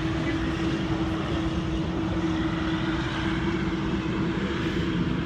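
Boeing 787 Dreamliner's turbofan engines running at taxi power: a steady rushing noise with one constant tone held through it.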